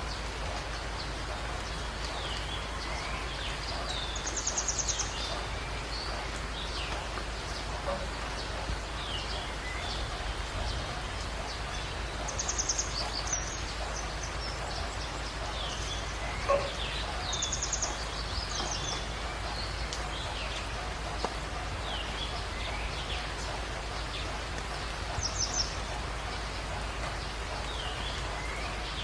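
Jungle dawn chorus over a steady hiss: a high, rapid trilling call repeats four times, spaced several seconds apart, among many short falling chirps from other birds. A single sharp tick comes a little past the middle.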